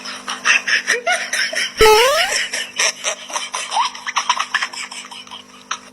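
Laughter in quick repeated bursts, with a short, loud rising squeal about two seconds in.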